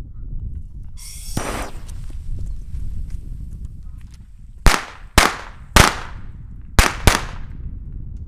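Five sharp bangs from small fireworks going off at uneven intervals in the second half, after a brief hiss about a second in. Wind rumbles on the microphone throughout.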